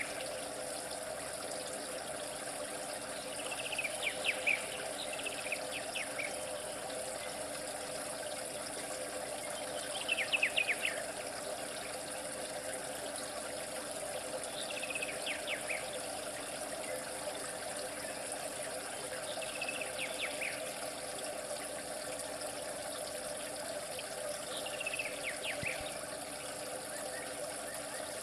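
Steady trickling water, with a bird's short chirping phrase, a quick run of falling notes, repeating about every five seconds.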